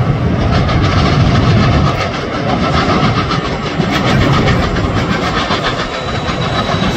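Metra diesel-hauled commuter train passing close by: the locomotive's engine runs and the bilevel coaches' wheels click rapidly over the rail joints and switches.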